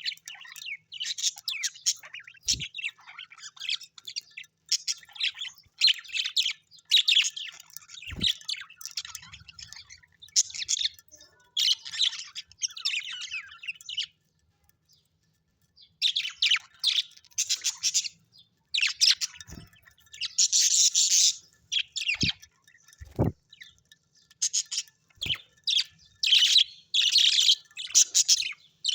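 Birds chirping and twittering in quick, dense runs of high calls, breaking off for about two seconds near the middle. A few soft knocks sound among the calls.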